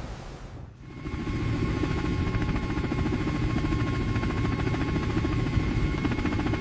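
A steady machine drone with a fast, even chopping pulse, starting about a second in after a brief dip in the sound.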